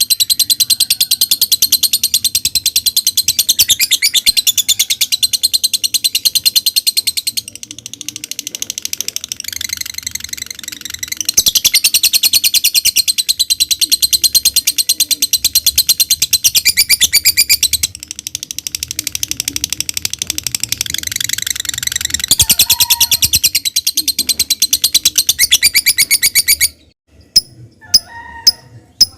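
Lovebird singing a long, very fast, high chattering song (the run-on 'ngekek' song prized by lovebird keepers), softer for a while in the middle; it breaks off near the end, leaving a few short separate chirps.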